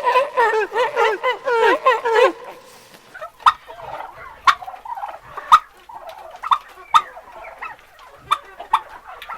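Turkey gobbling: a rapid warbling run of calls lasting about two seconds, followed by a series of sharp clicks and faint calls.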